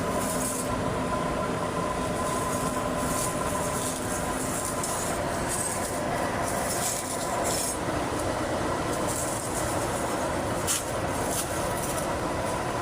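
Steady mechanical vehicle noise with a constant whine and repeated short high hisses.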